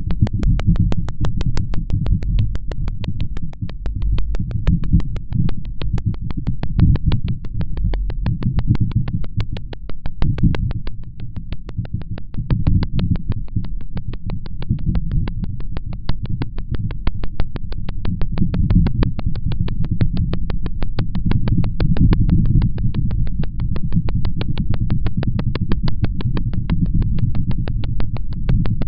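Motorcycle riding along: a steady low engine drone under heavy wind rumble on the microphone, with a fast, even ticking running through it.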